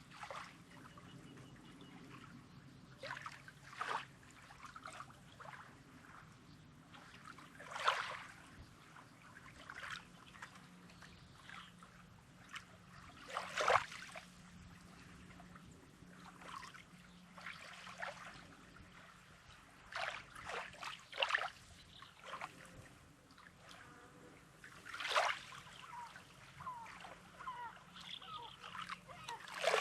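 Small sea waves lapping on a rocky shore: irregular splashes every few seconds, with water trickling back between the stones.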